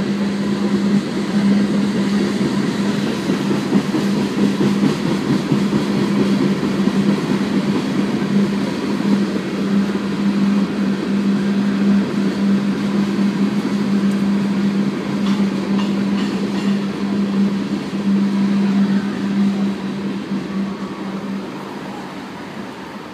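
R. J. Corman freight train passing with a steady low hum and a dense rumble of wheels on rail. The hum stops shortly before the end and the sound fades as the train moves away.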